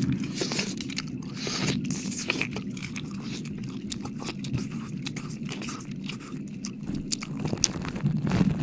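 Close-miked wet mouth sounds: irregular clicks, smacks and licking noises, over a low steady hum.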